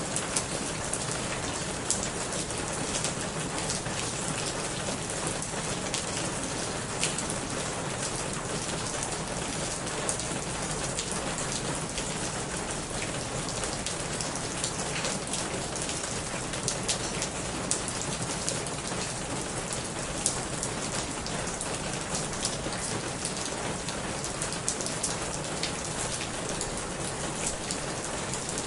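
Steady rain falling on a corrugated roof and running off its edge: a constant hiss with many sharp, scattered drop impacts.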